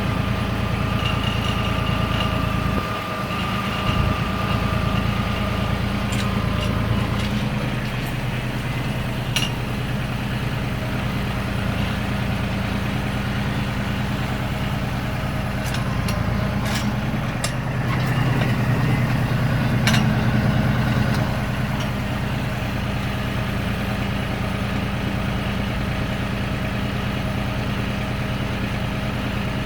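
RK37 compact tractor engine running steadily while it drives a three-point PTO post hole auger, its note shifting a few times and swelling louder for a few seconds past the middle as the load changes, with a few light clicks and knocks.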